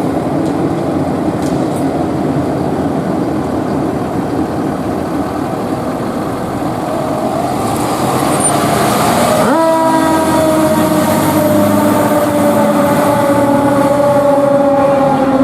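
A 2011 KME Severe Service fire engine's engine running under way. About nine and a half seconds in, its siren cuts in suddenly with a loud tone that slowly falls in pitch.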